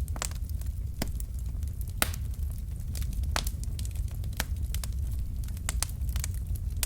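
Wood fire in a fireplace crackling: irregular sharp pops and snaps from the burning logs, several a second, over a steady low rumble of the flames.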